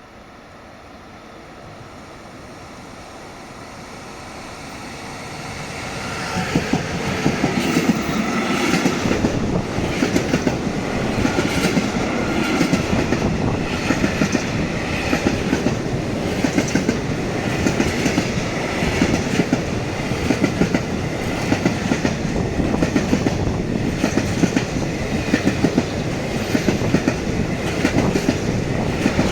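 Freight train passing, growing steadily louder over the first six seconds as it approaches, then a loud, steady run of wagon wheels clattering over the rail joints.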